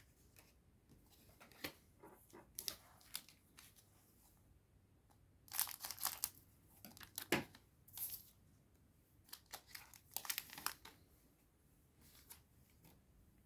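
Foil booster pack wrapper being crinkled and torn open, in short scattered bursts with a few light clicks between.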